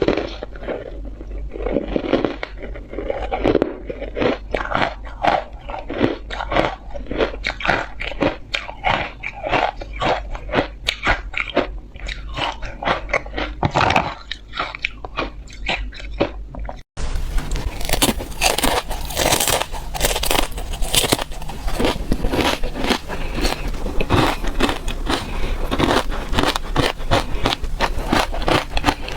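Ice being bitten and chewed close to the microphone: a rapid, irregular run of crisp crunches. About two-thirds of the way through there is a brief gap where the recording cuts, and after it the crunching sounds brighter.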